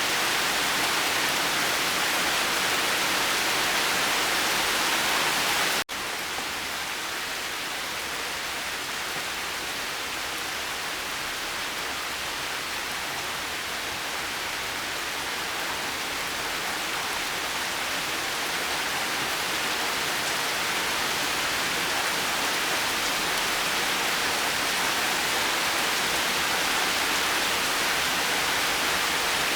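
Steady rain falling, an even hiss. About six seconds in the sound cuts out for an instant, then comes back quieter and slowly builds up again.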